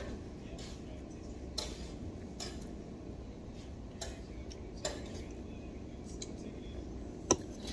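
Utensils clinking against plates and bowls while eating: about half a dozen separate light clinks, the sharpest near the end, over a steady low background hum.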